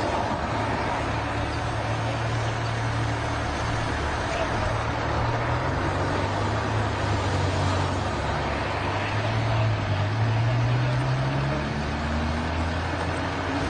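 A steady vehicle engine drone with a low hum, its pitch rising over the last few seconds.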